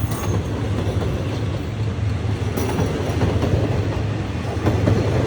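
Train running along the track: a steady low rumble.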